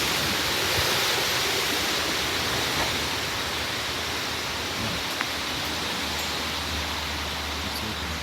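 Strong thunderstorm outflow wind rushing steadily as the storm's cold air arrives, easing a little over the seconds, with a low rumble coming in near the end.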